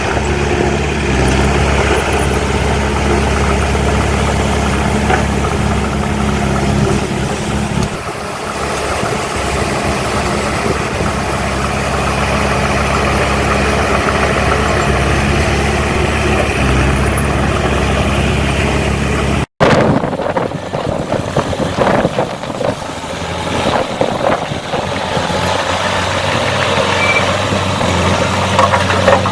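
Heavy diesel engines of earthmoving machinery (dump truck and bulldozer) running steadily. The sound changes abruptly about two-thirds of the way in, and scattered knocks follow.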